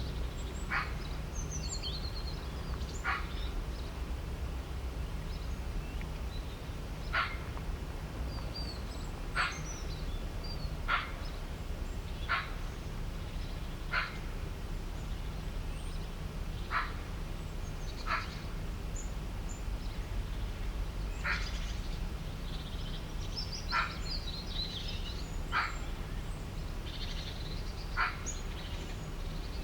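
An animal repeats a short, sharp call about every one to two seconds. Fainter high chirps sound above it, over a steady low rumble.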